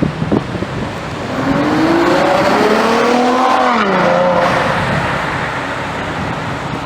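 A Ferrari accelerating hard, its engine note climbing for about two seconds, then dropping sharply about halfway through.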